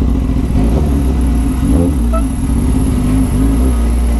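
Suzuki GSX-S1000's inline-four engine running at a steady, even note over a strong low rumble.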